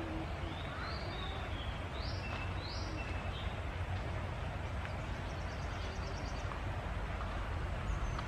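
Small birds calling: several short high chirps in the first few seconds, then a quick run of ticking notes about two-thirds of the way through, over a steady low rumble.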